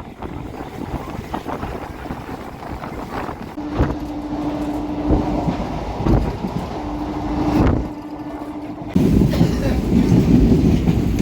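Local passenger train running along the track, heard from on board: a steady rumble with wheels knocking over rail joints and a low steady hum in the middle, growing louder about nine seconds in.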